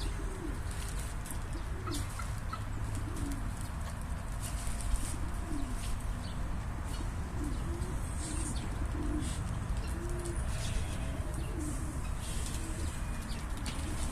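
Birds cooing over and over in low, soft, arching calls, with a steady low rumble underneath.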